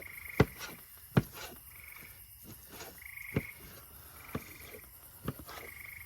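Frogs giving short, high trills about once a second, with several sharp knocks of a utensil on a cutting board or pan cutting through them.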